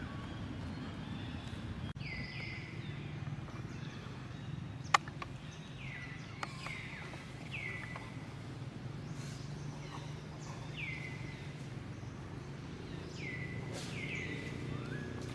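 Animal calls: short high chirps, each sliding quickly downward, coming often in pairs every second or two over a steady low background noise. A single sharp click about five seconds in.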